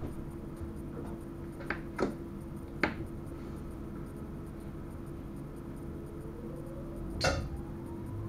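Electric train heard from inside the driver's cab: a steady hum with a few sharp clicks, then a louder click near the end while a whine begins to rise.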